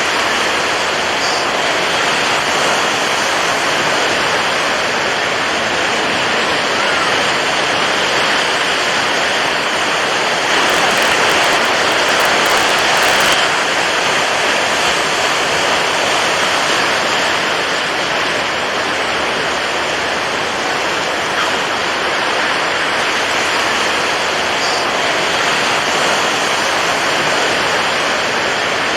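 Steady rushing water noise that swells slightly about ten seconds in and settles again.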